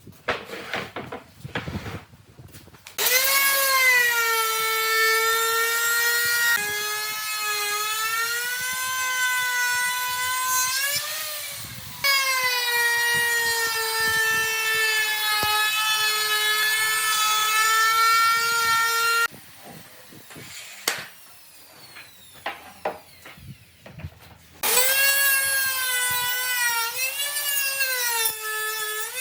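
Electric woodworking power tool running and cutting wood: a loud, high-pitched motor whine that dips and recovers in pitch as it bites into the wood. It runs in long stretches, winds down about two-thirds of the way through, with a few ticks while stopped, then starts again near the end.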